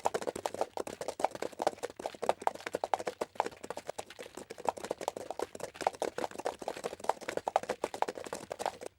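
Rapid footsteps, many sharp steps a second, starting suddenly and cutting off just before the end.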